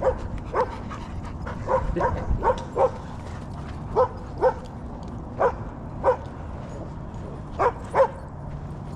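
A dog barking in play, about a dozen short, separate barks at uneven intervals, over a steady low background rumble.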